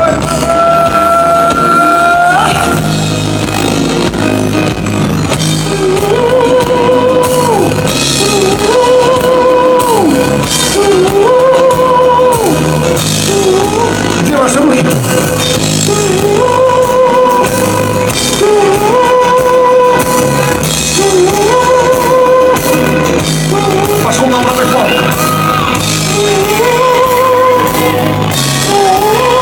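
Live pop-rock band playing in a large hall: a lead melody repeats a short phrase ending on a held note about every two seconds, over drums and guitar.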